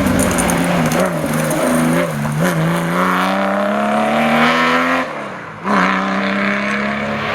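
Historic rally car engine revving hard: the pitch dips twice in quick succession, climbs steadily through the revs for a couple of seconds, then falls away sharply about five seconds in before picking up again.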